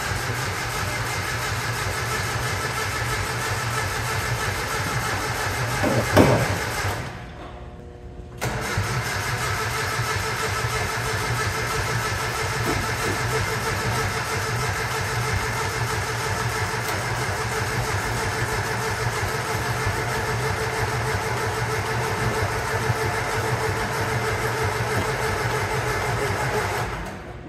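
1974 Datsun 620 pickup's carbureted inline-four engine running on a freshly fitted carburetor, its first start after about 30 years off the road. It revs up sharply once about six seconds in, goes quiet for about a second, then runs steadily again until it cuts off near the end.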